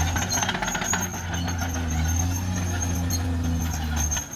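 Caterpillar D6R XL bulldozer's diesel engine running steadily, with a run of rapid clattering about half a second to a second in and a brief dip in level near the end.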